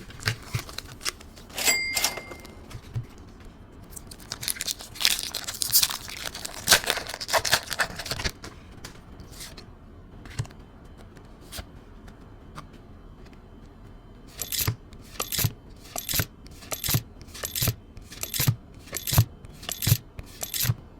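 Foil trading-card booster pack being torn open and crinkled, then cards flicked through one at a time, with a crisp snap about every two-thirds of a second near the end.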